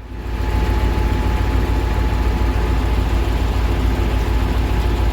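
Heavy diesel truck engine running, coming up sharply in the first half-second and then holding steady.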